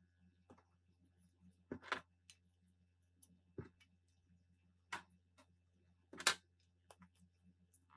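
Parts or tools being handled: about seven separate light clicks and knocks, the loudest about six seconds in, over a steady low hum.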